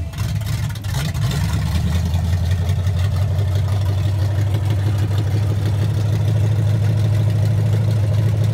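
Freshly built small-block Chevrolet 350 V8 with custom headers idling steadily just after starting, heard from inside the car's cabin. The sound is slightly uneven for the first second or so, then settles into a steady low running note.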